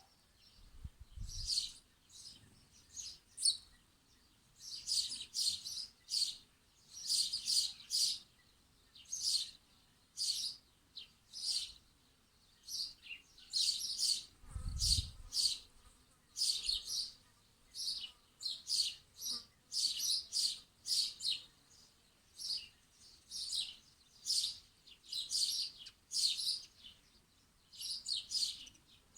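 Birds chirping continuously: short, high chirps, one or two a second, in overlapping bouts. Two brief low rumbles come through, about a second in and near the middle.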